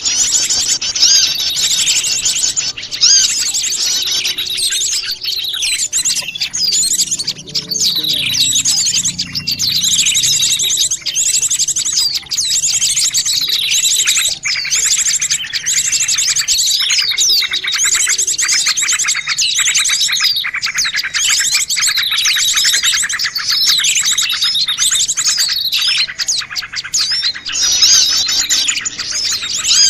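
A dense chorus of many small wild songbirds chirping and twittering at once, overlapping quick calls and trills with no pause, a noisy mixed bird-lure call meant to draw small birds in.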